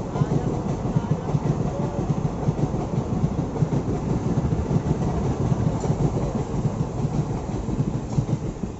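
Express passenger train running along the track: a steady, dense rumble and rattle of coach wheels on the rails, with quick clattering knocks throughout.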